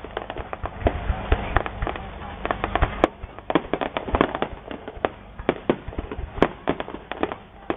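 Aerial fireworks bursting: a rapid, irregular run of bangs and crackling pops, several a second, with a few louder reports about three, four and six and a half seconds in.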